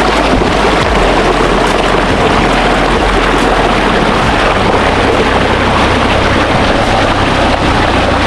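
Waterfall's steady rush of falling water, an even loud noise with no breaks.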